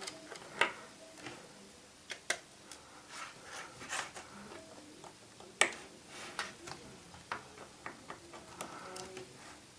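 Irregular small clicks and taps of a precision screwdriver working tiny screws out of an iPhone 4's corners, with the louder ticks about four seconds and five and a half seconds in.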